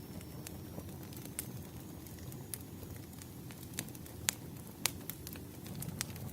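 Wood fire crackling: a steady low rumble of burning logs with scattered sharp pops, the two loudest a little past the middle.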